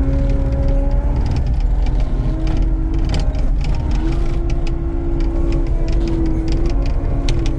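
Skid steer engine running under load, its drone stepping up in pitch twice as it is throttled up, with scattered clanks and rattles of the machine.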